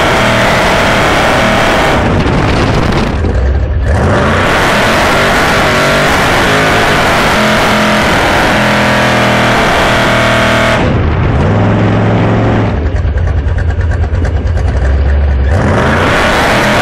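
Chevrolet El Camino's engine revving hard through a burnout while the rear tyre spins and smokes on the asphalt. The throttle drops off briefly about three seconds in and again for several seconds past the middle, falling to a low steady drone. It opens up again near the end.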